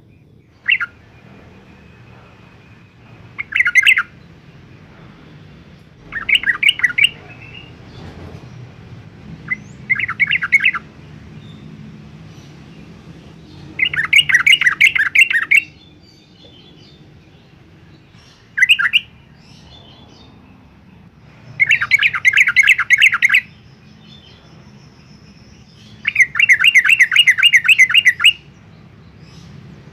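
Yellow-vented bulbul singing: about eight or nine loud phrases of rapid, quickly repeated notes. Each lasts from a moment to about two seconds, with pauses of a few seconds between them, over a faint low hum.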